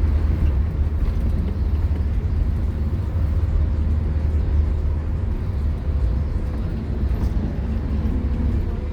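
Scania K230UB single-deck bus's five-cylinder diesel engine running under way, a steady low drone with a faint steady whine above it.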